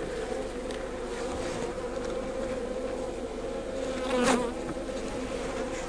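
Honeybees buzzing steadily around an opened Langstroth hive, a hum that swells briefly louder about four seconds in.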